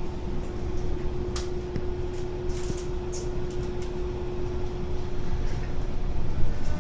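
Tokyo Metro 03 series subway train standing with a steady low hum and one held tone, and a few faint clicks.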